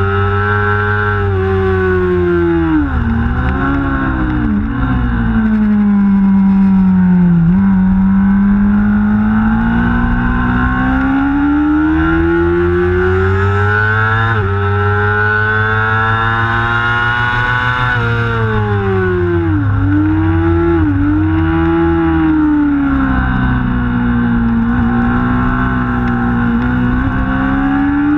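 Honda CBR600RR's inline-four engine heard from onboard at racing speed. Its pitch drops through a quick series of downshifts into a corner, climbs steadily as it accelerates out, and falls sharply at an upshift about 14 seconds in. It then brakes and downshifts again before pulling hard once more near the end.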